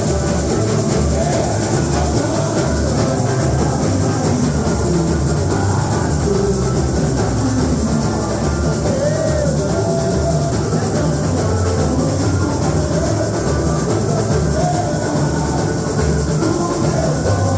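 Samba-enredo played live by a samba school percussion section: bass drums beat a steady samba rhythm under shakers and other percussion, with singing faint in the mix.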